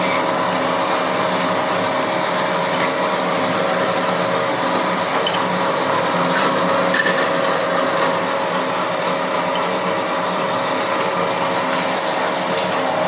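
LC-12R sheet-metal seam rolling machine running, a steady hum with a constant tone and scattered light clicks.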